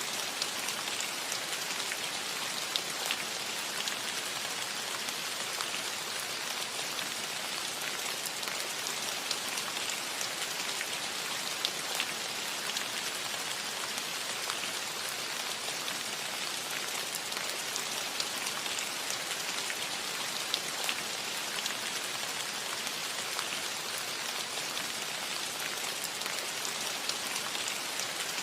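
Steady rain falling on a metal roof: an even hiss with scattered sharper ticks of single drops striking the metal.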